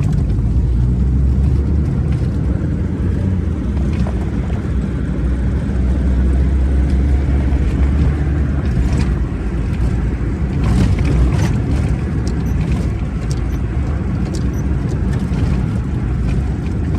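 Steady low rumble of a moving vehicle, with a few faint clicks about two thirds of the way through.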